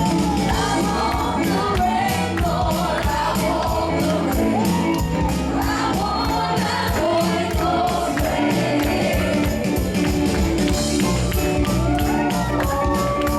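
Live gospel worship music: voices singing a melody over a band, with tambourine and percussion keeping a steady beat.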